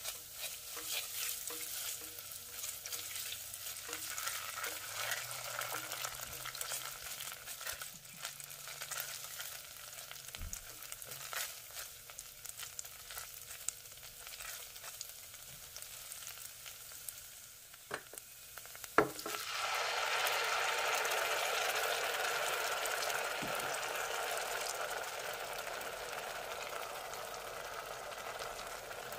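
Garlic and tomato paste frying in oil in a saucepan, sizzling lightly with scattered clicks and scrapes of a spatula stirring. About two-thirds of the way through, tomato puree goes into the hot oil and the sizzle turns into a louder, steady hiss.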